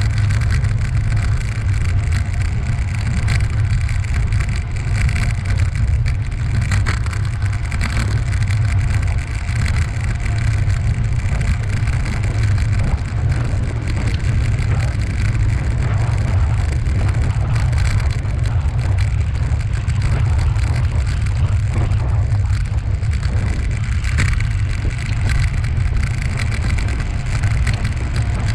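Wind buffeting the microphone of a camera carried on a ride, a steady low rumble, with a few faint rattles from bumps in the path.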